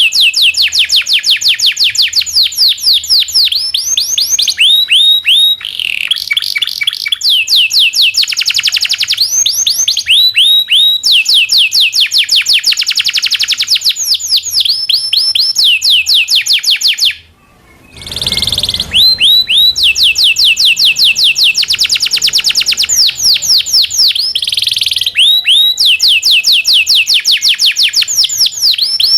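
Domestic canary singing loudly: quick series of repeated falling chirps, about six a second, alternating with fast trilled rolls. The song breaks off briefly about 17 seconds in, then resumes.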